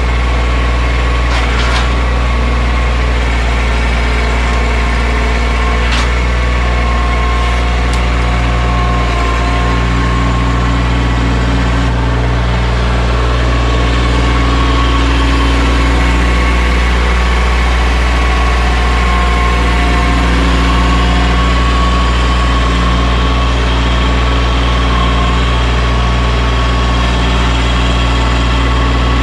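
Mahindra 1626 sub-compact tractor's diesel engine running steadily, with a few short clicks in the first third.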